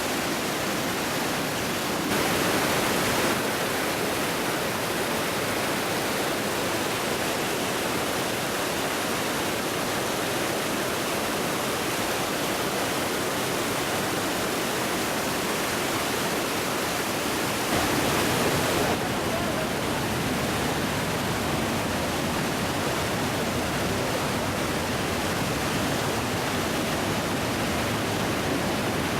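Steady roar of Iguazu Falls, water pouring over the cliffs, swelling briefly louder twice.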